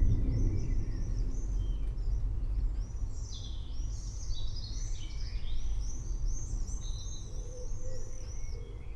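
Thunder rumbling low and fading over the first few seconds, with small birds chirping in quick, repeated arched notes above it.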